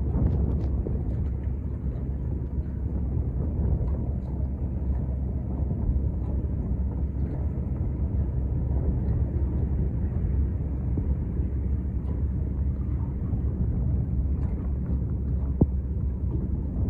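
Steady low rumble of a boat engine, with a single sharp click near the end.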